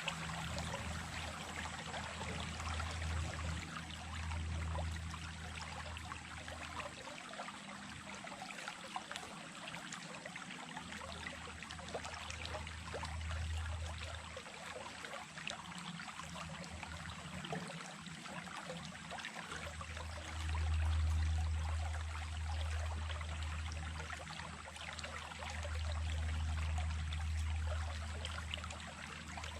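Small stream running, with water steadily trickling and splashing. A low rumble underneath swells and fades several times.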